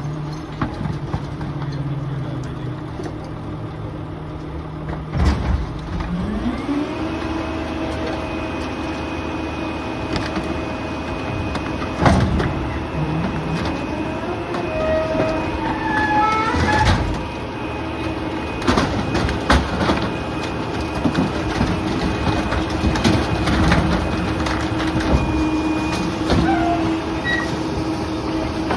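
A garbage truck's diesel engine running, then speeding up about six seconds in and holding at a higher pitch, as a rear-loader packer works. Scattered knocks, cracks and short squeals come from curbside debris being loaded and crushed.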